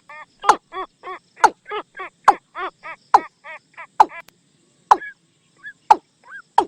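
Watercock calls played as a decoy lure: a rapid series of short hollow notes, about three to four a second, broken about once a second by a louder sharp note. After the middle the series thins out into a few scattered rising notes.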